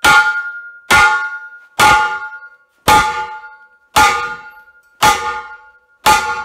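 Steel oxygen tank struck hard about once a second, seven blows, each ringing out like a bell with a few clear tones that fade before the next. The blows are trying to knock off a section that has not been cut all the way through.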